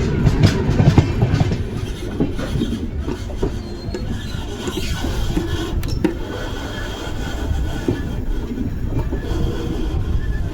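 Amrit Bharat Express train running along the track: a steady rumble of wheels on rail with scattered clicks and clatter.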